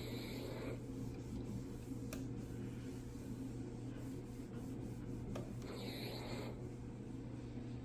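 Short soft rubbing strokes, one at the start and another about six seconds in, with a faint click around two seconds, over a steady low hum.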